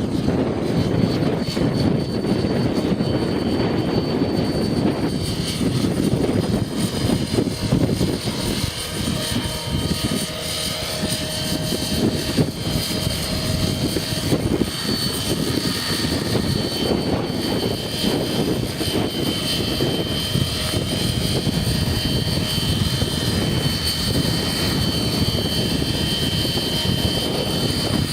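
Electric RC helicopter (Align T-Rex 600E Pro) in flight: a steady high whine from its motor and rotor that drifts a little in pitch, under heavy wind buffeting on the microphone.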